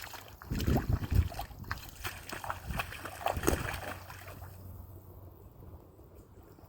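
Knocks, clatter and low thumps of gear being handled in a small boat, with some water movement, dying down about four seconds in.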